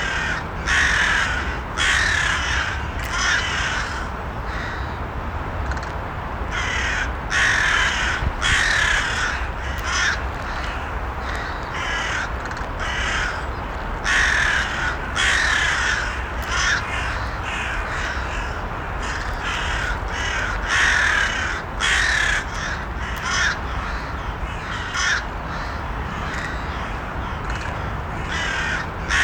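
Crows cawing: groups of harsh caws every second or two, over a steady low background rumble.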